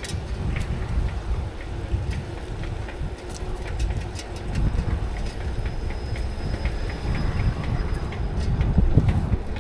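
Bicycle rolling along a paved path, with a low rumble of tyres and wind on the microphone and scattered rattling clicks from the bike.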